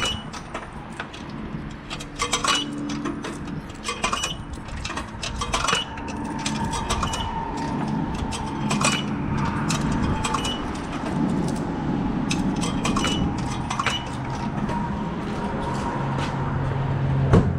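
Coins clinking as they go one after another into a self-serve car wash's coin slot, many short sharp clinks spread through. A steady tone comes in about seven seconds in.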